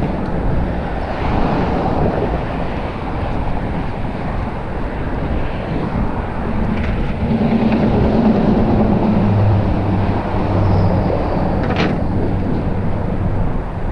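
Wind rushing over a GoPro Hero 5 Black's microphone as a mountain bike is ridden along a trail, a steady low rumble, with one sharp click near the end.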